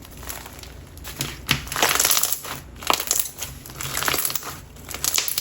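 Clear glue slime packed with pumice stone being squeezed and worked by hand, giving an irregular crunching and crackling with small sharp pops, loudest about two seconds in.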